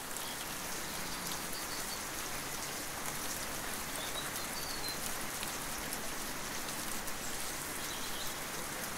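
Steady rain falling, an even hiss, with a few faint high bird chirps about halfway through.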